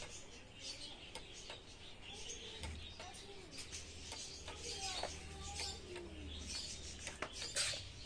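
Faint chirping of small birds, with a few low gliding calls and a low hum that comes in about a third of the way through and fades near the end.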